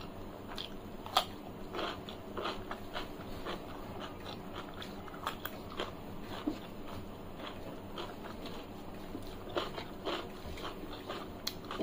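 Close-miked eating: crisp bites into a raw cucumber slice and chewing, a string of short crunches with the sharpest about a second in.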